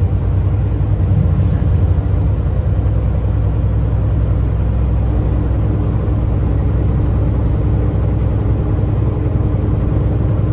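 Semi-truck diesel engine and road noise heard inside the cab, a steady low rumble as the truck climbs a long grade under load. A steady higher hum joins about halfway through.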